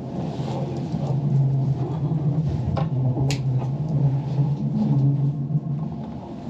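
Bernina Express train running, heard inside the passenger carriage: a steady low rumble with a strong deep hum. About three seconds in there is one short, sharp high-pitched sound.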